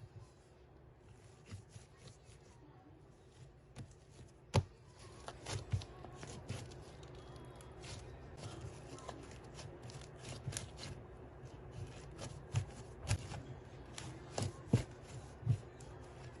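Slime being handled by a toddler's hands: irregular sticky clicks and pops. They are sparse at first and come more often from about four seconds in.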